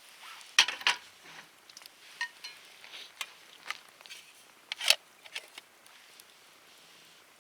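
Wood fire in a metal fire stand crackling, with irregular sharp pops and clicks, two of them louder, and a few with a brief metallic ring.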